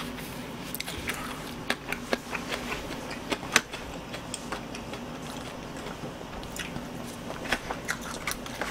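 A person chewing fried chicken close to the microphone, with irregular crunches and mouth clicks.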